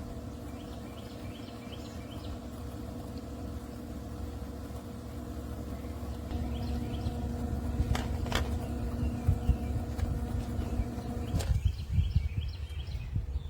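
6699 1/6 HP submersible utility pump's electric motor running with a steady hum over a low water rumble, cutting off abruptly about three-quarters of the way through. Birds chirp faintly in the background.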